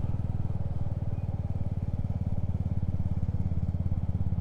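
Motorcycle engine running steadily at low revs, with a fast, even beat of exhaust pulses, as the bike rolls along.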